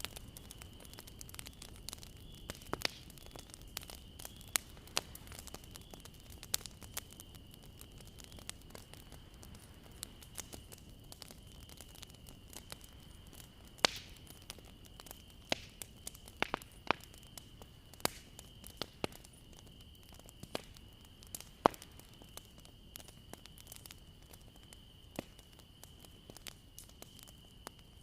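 Bonfire crackling: wood burning with irregular sharp pops and snaps over a low, steady rumble of flame. A faint steady high-pitched tone runs underneath.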